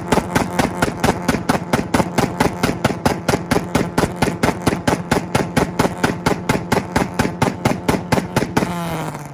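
A car engine held on a two-step launch limiter: the revs stay pinned at one pitch while the exhaust pops and bangs in a fast, even rattle of about six shots a second. Near the end the limiter is released and the revs fall away.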